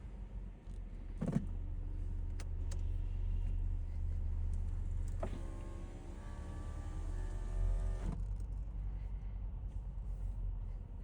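Low steady drone of the Audi S5's supercharged 3.0 V6 and road noise inside the cabin, with a few sharp clicks early on. About five seconds in, a power window motor whines for about three seconds, starting and stopping with a click.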